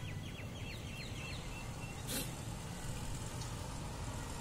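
Small bird chirping a quick run of about seven short, high, falling notes, then a single click about two seconds in, over a steady low background rumble.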